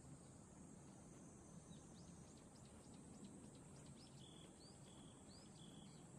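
Faint bird song: a quick run of short high notes, then a few short level whistles alternating with upswept notes, over a steady high hiss.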